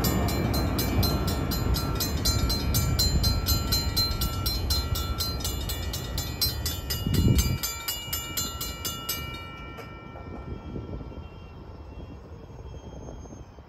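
Capitol Corridor passenger train running past a grade crossing and fading into the distance, with a brief louder swell about seven seconds in. The crossing bell rings rapidly over it and stops about nine seconds in, as the crossing clears.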